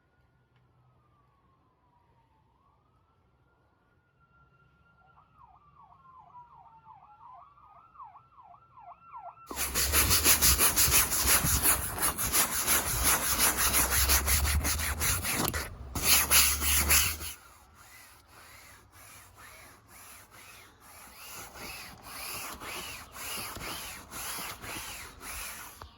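Soft-bristle brush scrubbing wet awning fabric in quick back-and-forth strokes, loud for several seconds from about ten seconds in, then softer to the end. Early on, a faint distant siren wails and then switches to a fast yelp.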